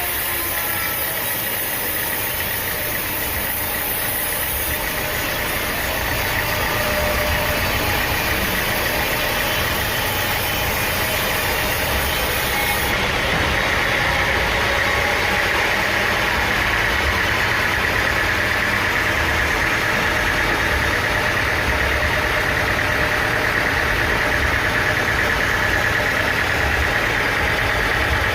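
Sawmill machinery running steadily: an engine drone with a higher whine that grows louder about halfway through.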